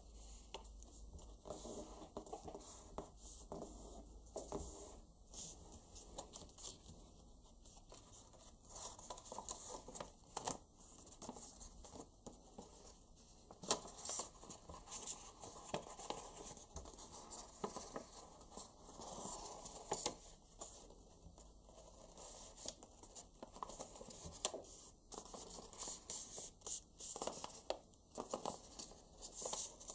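Paper being folded and creased by hand: faint, irregular rustling and crinkling with many short, sharp snaps as creases are pressed.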